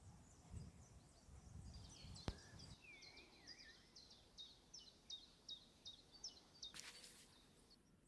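Faint birdsong: a small bird repeating short high chirps about twice a second, with a lower whistled gliding note among them. A single sharp click about two seconds in, and low rumble at the start.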